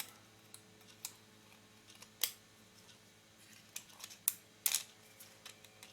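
Scattered small clicks and taps of metal lens parts being handled as the mount ring is lifted off a Canon FD 50mm f/1.8 lens, the sharpest about two seconds in and a quick run of them near the end.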